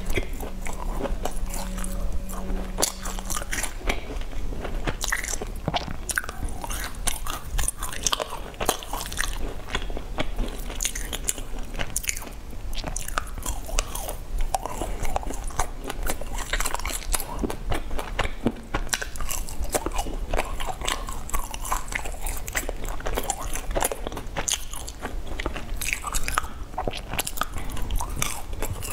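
Close-up crunching and chewing as sesame-crusted cakes are bitten and eaten, with many crisp crackles one after another throughout.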